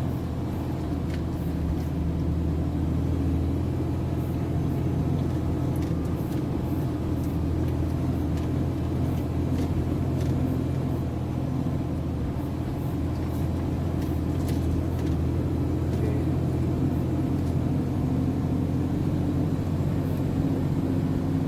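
MAN TGS 33.480 heavy truck's diesel engine running steadily, with a few faint clicks over it.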